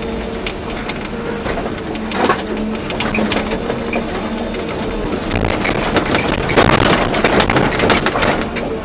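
Volvo EC240B excavator's diesel engine running steadily while soil and stones crunch and clatter as the bucket works the load, the crunching loudest from about six seconds in until near the end.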